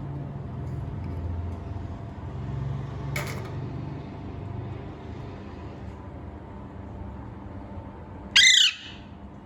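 A parrot gives one short, loud squawk with a falling pitch, a little past eight seconds in, over a steady low rumble.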